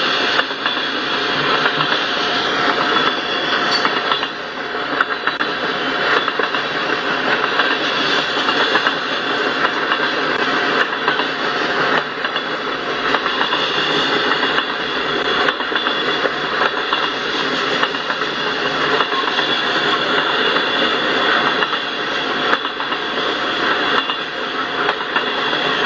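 Freight train of loaded tank cars rolling past: a steady, unbroken noise of steel wheels running on the rails.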